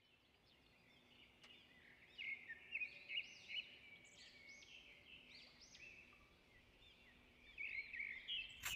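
Faint bird song: small birds chirping in quick high notes, over and over, from about two seconds in. A sharp click comes at the very end.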